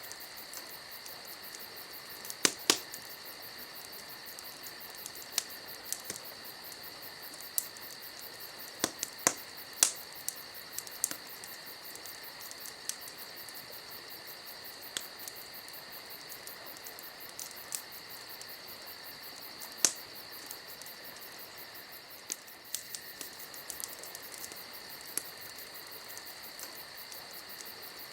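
Campfire crackling, with irregular sharp pops, the loudest a few seconds in, around ten seconds and around twenty seconds, over a steady high chirring of crickets.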